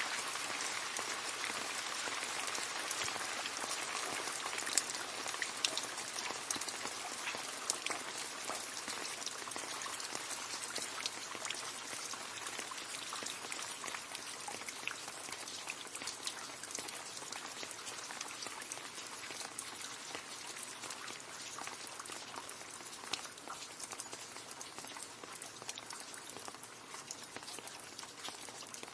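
Steady rain falling into a puddle: a dense patter of drops splashing on water, with many small sharp drips standing out, easing off slightly near the end.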